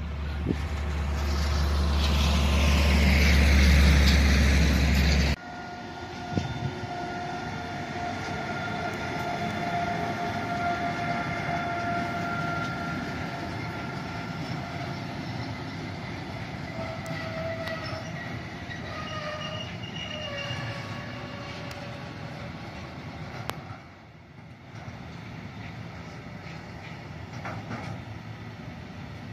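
A yellow rail maintenance vehicle approaches with a heavy low rumble that grows louder, then stops abruptly about five seconds in. An intermodal freight train of wagons loaded with semitrailers then rolls past, its wheels giving off steady ringing squeal tones over the running noise, with occasional sharp clicks from the rail joints.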